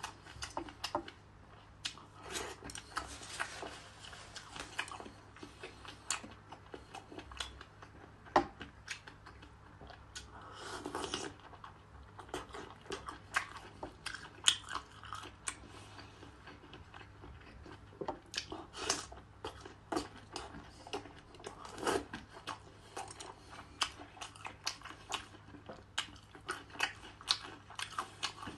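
Close-miked chewing and biting of seafood in chili sauce (octopus and mussels), with many sharp mouth clicks and smacks throughout.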